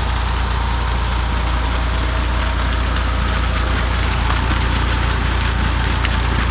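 Tractor engine running steadily at constant speed, driving a tube well pump.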